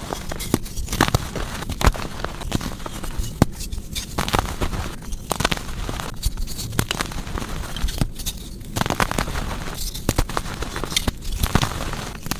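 Blocks of powdery gym chalk being crushed and crumbling, a dense crackle full of sharp snaps. It comes in a run of crushes with short breaks between them.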